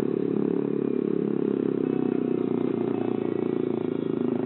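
Yamaha R15 V3's single-cylinder engine running steadily at low road speed, a continuous even drone with no revving.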